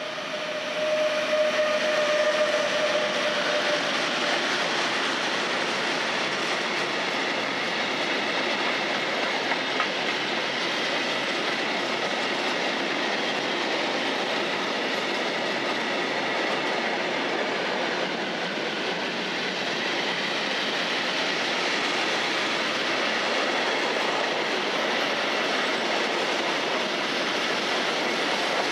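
An ÖBB class 1116 Taurus electric locomotive passes, then a long freight train of tank, flat and open wagons rolls by, its wheels running steadily on the rails. A steady whine is heard during the first few seconds as the locomotive goes past.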